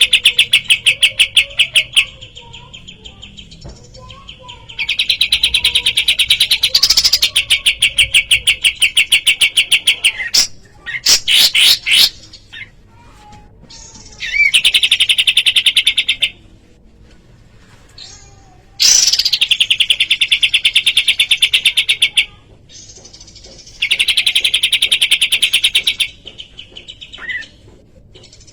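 Kapas tembak songbird calling in fast, rattling trills, each phrase lasting two to five seconds with short pauses between.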